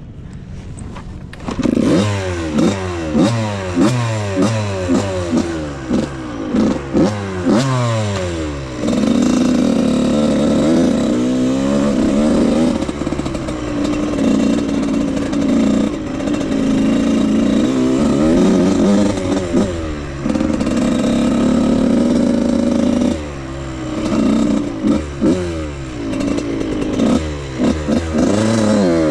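Suzuki RM85 two-stroke dirt bike engine ridden hard. From about two seconds in it revs up and drops back again and again as it shifts up through the gears, then holds high revs for a long stretch, then comes a series of short rev blips, and it climbs again near the end.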